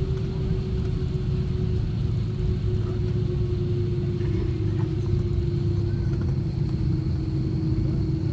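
Airliner cabin noise on the ground after landing: a steady low rumble with a steady hum that sinks slightly in pitch.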